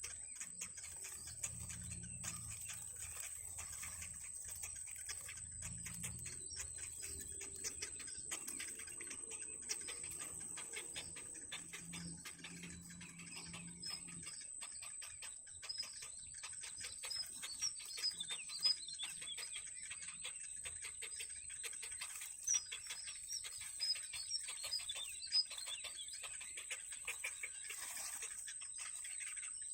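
Nestling birds begging with short, high chirps, mostly in the second half, over a steady high-pitched whine and a low hum in the first half.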